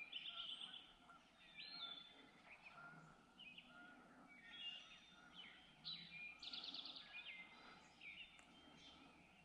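Songbirds calling and singing at once: many short chirps and sweeps, with quick trills near the start and again about six and a half seconds in.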